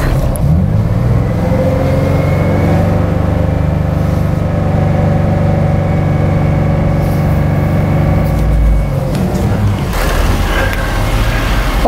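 A 2007 Ford Mustang V6 engine is revved up from idle within about a second and held steady at around 2,200 to 2,500 rpm, then drops back about nine seconds in. It runs smoothly without cutting out, a sign that the misfire fault is cured now that the crankshaft position sensor is centred over its trigger wheel.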